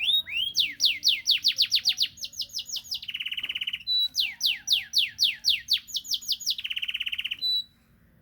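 Domestic canary singing a long song phrase of fast repeated rising whistled notes broken by rapid trills. The song stops abruptly near the end.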